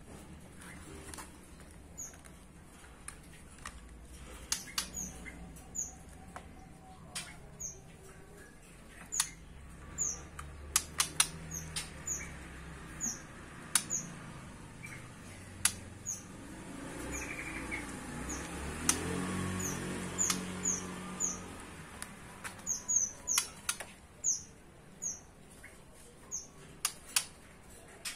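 Pet songbirds chirping: short, high, downward-sliding chirps repeated irregularly, mixed with sharp clicks and taps. A low rumble swells and fades around the middle.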